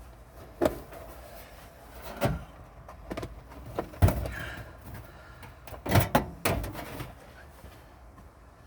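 Irregular knocks and clunks, about eight in all, from parts and tools being handled and fitted, with the sharpest ones about four and six seconds in.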